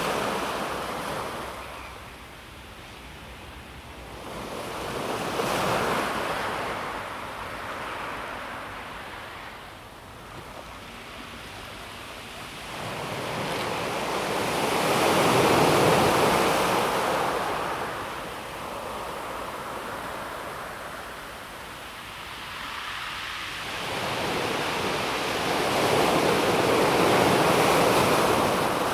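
Calm sea waves washing onto a pebble beach and drawing back, the surf swelling and fading in slow, uneven surges, the biggest about halfway through and another near the end.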